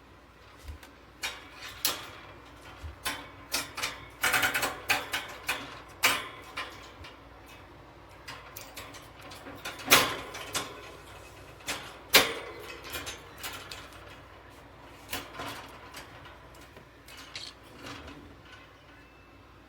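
Wire bird cage rattling and clicking: irregular metallic clicks and clatters, with a quick run of them and a few louder knocks about halfway through.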